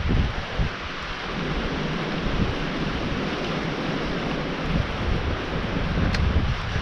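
Wind rushing over a helmet or body-mounted camera's microphone while riding a mountain bike downhill, with an uneven low rumble from the tyres on the dirt trail. A single light click comes near the end.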